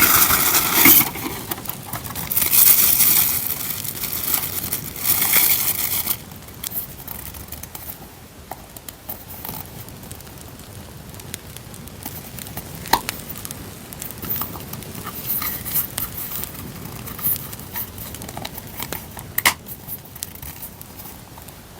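Paper and packaging rustling and crinkling loudly for about the first six seconds as journaling items are handled, then a quieter steady campfire crackle with a few sharp snaps. The crackle is an added campfire sound track.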